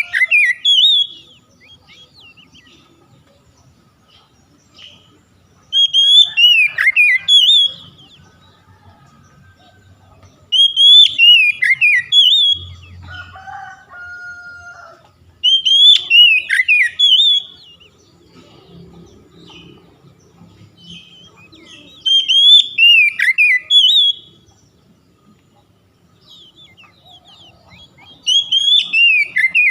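Oriental magpie-robin (kacer) singing one loud whistled phrase of quick rising and falling notes, about two seconds long, repeated about every five to six seconds. A lower, different two-part call comes about halfway through.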